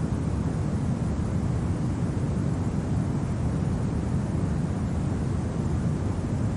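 Steady low wind blowing, a deep even rumble with no distinct gusts or other events.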